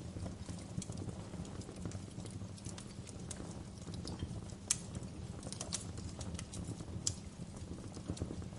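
Fireplace fire crackling: irregular sharp snaps and pops over a steady low rumble, with a louder pop about halfway through and another near the end.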